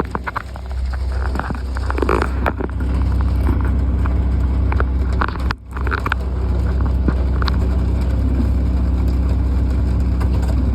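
An engine running steadily with a low drone, scattered sharp taps and crackles over it. The sound drops out briefly about halfway.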